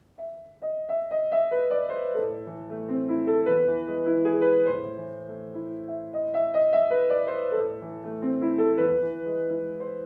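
Piano playing a short chime-like melody whose phrase is heard twice, with lower notes held underneath; it recalls a school break-time bell.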